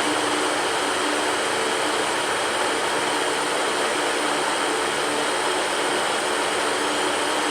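Electric fan running steadily: an even rush of air with a faint low hum underneath.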